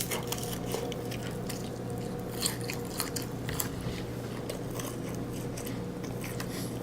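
A person chewing and biting crispy breaded air-fried chicken, with scattered small crunches, over a steady low hum.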